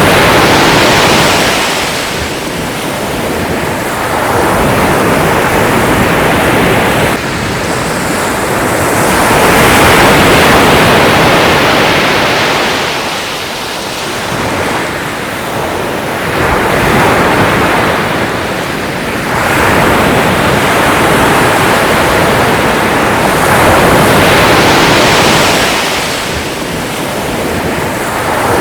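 Sea waves breaking and washing on the shore, a steady rush that swells and ebbs in slow surges about every seven or eight seconds.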